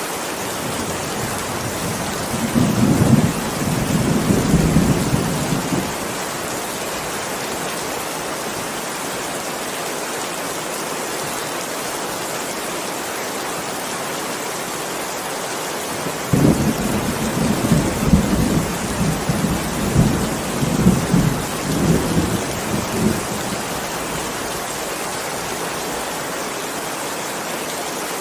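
Heavy rain falling steadily, with thunder rumbling twice: a short roll a few seconds in and a longer, rolling one from about the middle to near the end.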